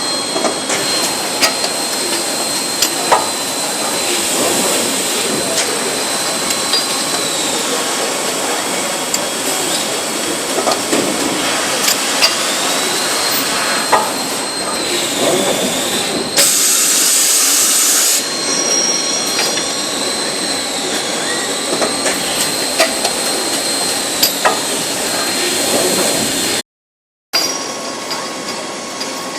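A train running, with a steady high whine that dips in pitch and comes back several times, scattered clicks, and a short burst of hiss about seventeen seconds in. The sound cuts out completely for about half a second near the end.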